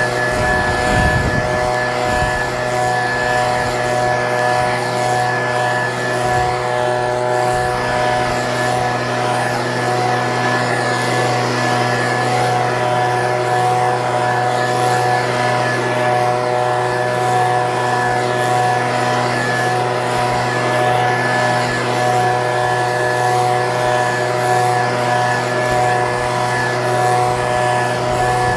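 Echo PB-2620 handheld leaf blower's small two-stroke engine running at a steady speed, blowing air, with no change in pitch.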